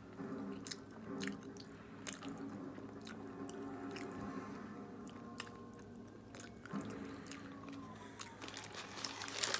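Close-up mouth sounds of people chewing food, soft wet clicks and crunches, over faint music in the background. A burst of paper rustling starts right at the end.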